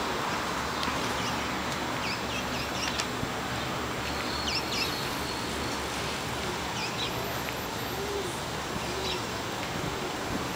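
Small birds chirping in short, scattered calls over the steady hum of street traffic.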